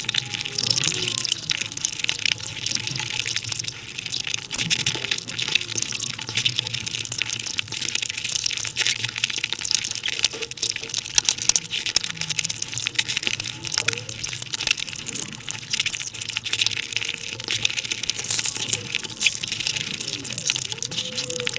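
Close-miked mukbang eating sounds sped up five times, so the wet chewing of luchi and curry runs together into a dense, continuous crackle of tiny clicks.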